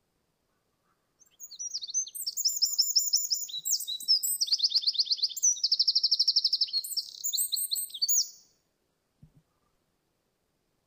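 Eurasian wren singing one long song of fast, high trills and quick notes, lasting about seven seconds.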